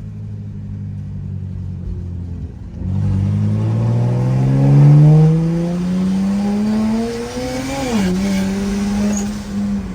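Single-turbo BMW N54 inline-six accelerating. The engine cruises steadily, then about three seconds in it comes on load and its pitch climbs for about five seconds. Near eight seconds the pitch drops sharply at an upshift and then holds steady.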